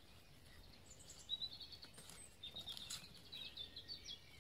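Faint songbird chirping: runs of short, high notes starting about a second in, over a quiet background hiss.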